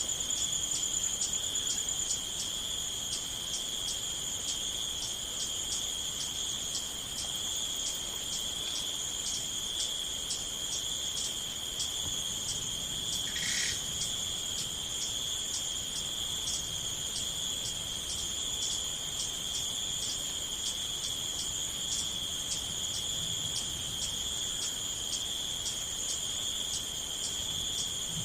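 Crickets chirping: a steady high trill with quick regular ticks running over it, and one brief lower chirp about halfway through.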